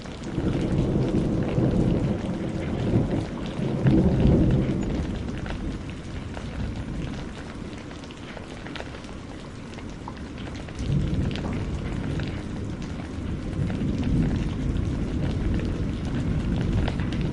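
Steady rain with two long, low rolls of thunder, the first starting just after the beginning, the second about eleven seconds in. Small scattered ticks run through it.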